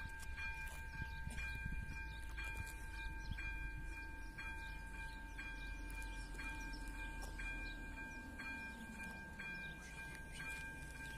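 AŽD ZV-02 electronic level-crossing bell ringing, striking about once a second with a ringing tone that carries on between strikes: the crossing warning is active.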